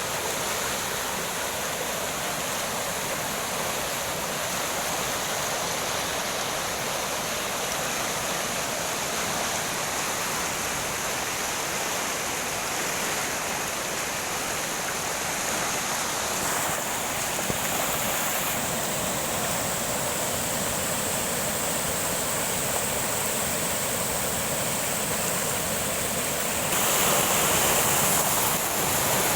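Rain falling, a steady rushing hiss of water that gets a little louder near the end.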